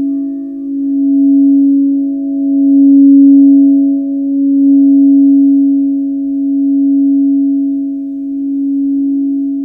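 Crystal singing bowls ringing in a long sustained tone, a few steady pitches layered together, the sound swelling and fading in slow waves about every two seconds.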